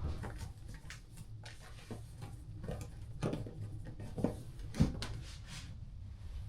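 Scattered small knocks, clicks and rustles of objects being handled in a small enclosed space, the sharpest knock a little under five seconds in, over a low steady rumble.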